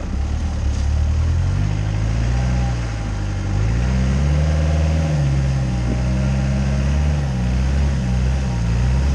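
Land Rover engine running under load at low speed, its note rising and falling several times as the throttle is worked, highest about four to five seconds in.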